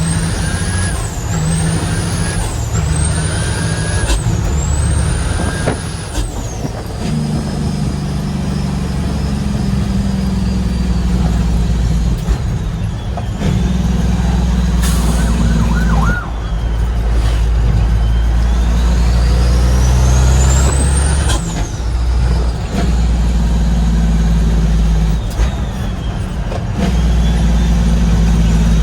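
Heavy diesel truck engine pulling under load, its pitch stepping with gear changes. A high whistle rises in quick ramps several times over the first six seconds, then sweeps slowly down and back up before cutting off about two-thirds of the way through.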